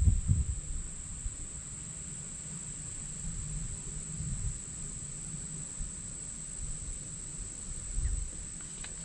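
Steady, high-pitched insect chorus droning without a break, with a low rumble on the microphone that swells at the start and again near the end.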